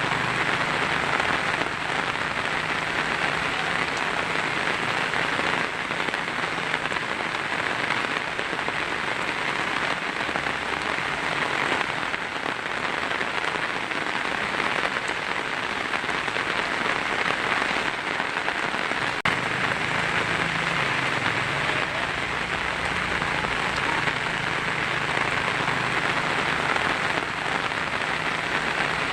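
Heavy rain drumming steadily on a tin roof: a dense, even patter with no break.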